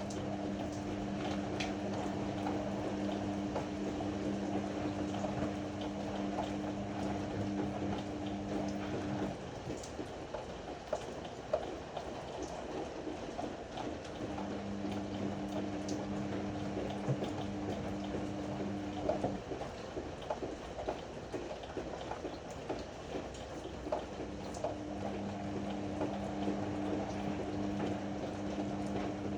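Ariston AML125 washer-dryer in a wash cycle: the drum motor hums steadily as the drum turns, stops about nine seconds in, runs again for about five seconds, pauses, and starts once more near the end. Under the hum there is a constant sloshing and swishing of water and laundry in the drum.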